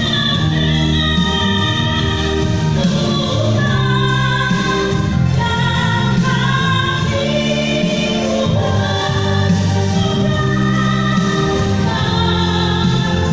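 Singing with musical accompaniment: a melodic vocal line over long held low notes, steady and continuous.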